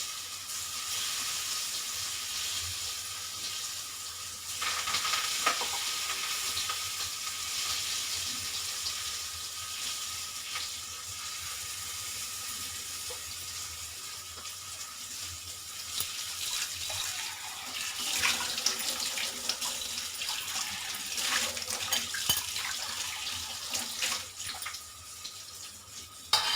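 Cooking oil sizzling in a pan: a steady hiss, with a few light clinks of a utensil against the pan in the second half.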